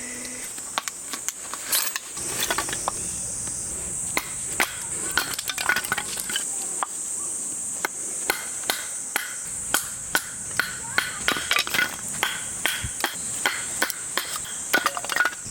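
Firewood being split: repeated sharp chopping strikes on wood, about one or two a second, coming faster and more regularly after the first few seconds.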